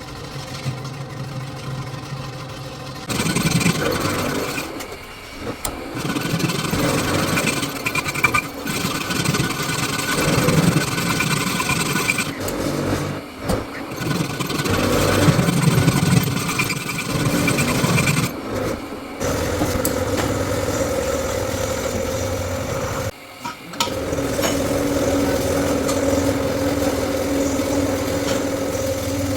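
Metal lathe running, with a steady motor hum that turns into uneven rasping as the tool cuts, stopping and starting several times; near the end it settles into a steadier run with a held hum.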